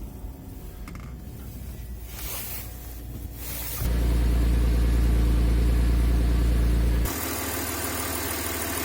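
1999 Audi A4's 2.4-litre 30-valve V6 idling steadily on a cold start at −7 °C, through a sports exhaust. About four seconds in the idle turns suddenly louder and deeper, and about seven seconds in it drops back to a steadier, quieter level.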